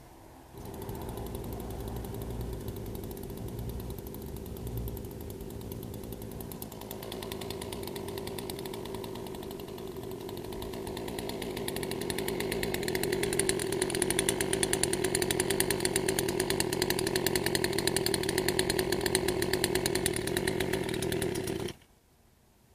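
Poulan 18-inch gas chainsaw's two-stroke engine running. It starts suddenly, runs steadily, grows louder and brighter about halfway through, and cuts off abruptly near the end.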